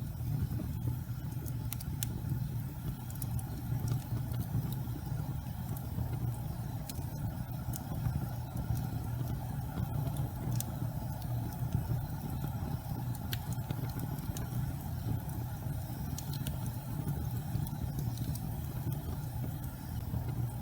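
Gas fireplace flames burning with a steady low rumble, with occasional faint crackles scattered through it.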